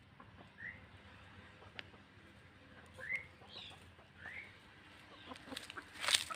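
Birds calling in short chirps, each a quick upward-sweeping note, four or so spread through the clip. There are scattered light clicks, and a brief louder noise sounds near the end.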